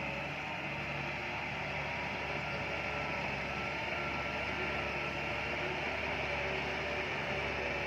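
Heavy diesel earthmoving machinery, such as a bulldozer, running steadily with an even engine drone.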